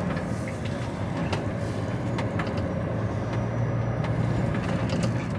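Cab interior of a Volvo HGV tractor unit on the move: steady low engine and road drone, with scattered sharp rattles and clicks from loose things in the truck.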